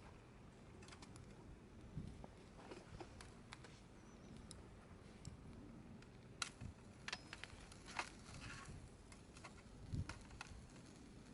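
Wood campfire crackling faintly, with irregular small pops and snaps; a few sharper snaps stand out about two, six, eight and ten seconds in.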